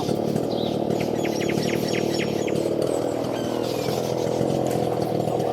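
A small motor drones steadily at a constant pitch. Over it a bird gives a quick run of about six short, high chirps around a second in, then a thinner gliding call a little later.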